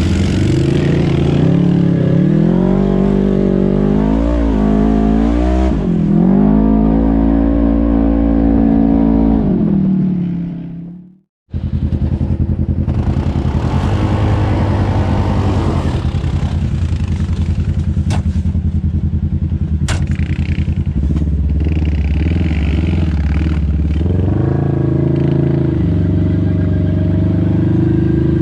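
Off-road vehicle engine revving, its pitch rising and falling several times, then cutting off suddenly just before halfway. After that an engine runs more steadily with two sharp clicks, revving up again near the end.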